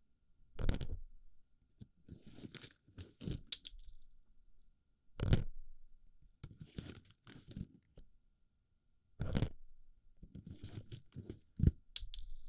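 Small plastic BB pellets being pushed and rolled against a microphone's ear, close up: bursts of crunchy, gritty rustling broken by about four sharp clicks a few seconds apart.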